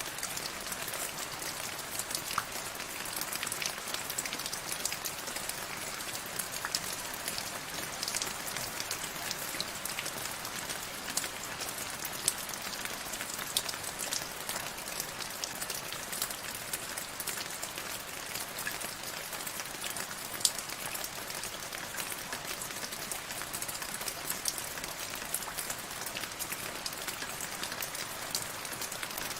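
Steady rain falling, a continuous hiss dense with the small sharp ticks of individual drops hitting a surface.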